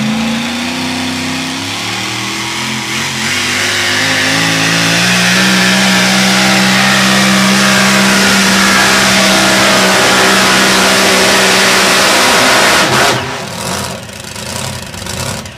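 Super modified four-wheel-drive pulling truck's engine at full throttle under load during a pull. Its pitch steps up over the first few seconds, holds steady, then drops off sharply about thirteen seconds in.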